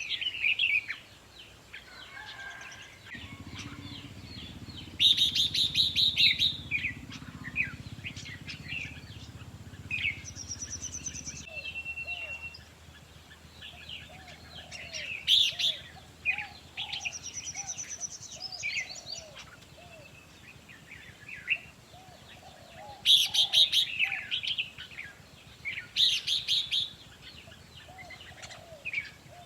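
Red-whiskered bulbuls singing: short, bright chirping and whistled phrases that come in clusters, with the loudest bursts several times through the stretch.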